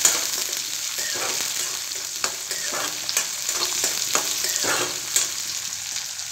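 Chopped onions and green chillies sizzling in hot oil in a metal kadhai, frying toward brown. A metal spatula stirs them, scraping and clinking against the pan in short strokes at irregular intervals.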